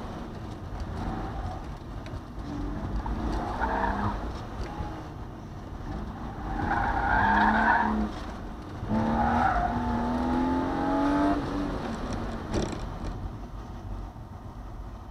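BMW E36 M3's straight-six engine running hard through an autocross course, heard from inside the cabin, its pitch rising as it revs about nine to eleven seconds in. Tyres squeal in the turns, loudest around seven to eight seconds in, and the engine eases off near the end.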